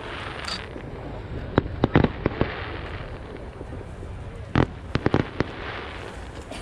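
Aerial fireworks bursting overhead: scattered sharp bangs, clustered about two and five seconds in, with crackling between them.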